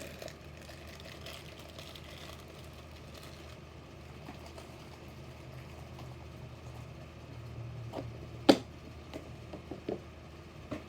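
A low steady hum, then, about eight and a half seconds in, one sharp click followed by a few lighter clicks: die-cast toy cars being handled and set down.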